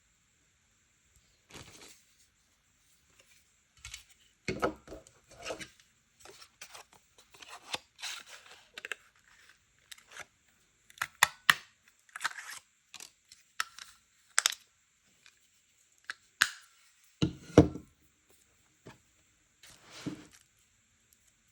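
Paper being handled at a desk: intermittent rustling and tearing of paper. There are several sharp clicks through the middle and a couple of dull thumps, the loudest near the end.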